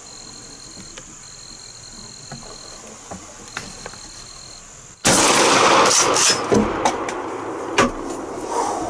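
Insects or frogs calling steadily, then about five seconds in a single loud shotgun blast, followed by several seconds of loud rustling noise with sharp knocks.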